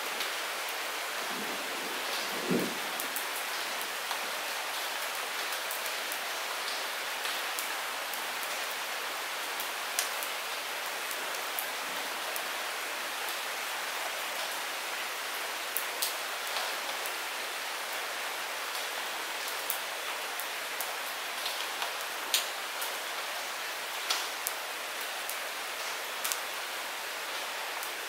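Light rain falling steadily, an even hiss with scattered sharper drips landing close by. One brief duller thump comes a couple of seconds in.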